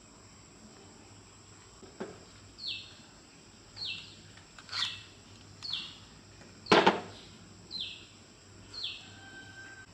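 Short falling chirps repeated about once a second, like a bird's call. A few sharp knocks come between them, the loudest just past the middle.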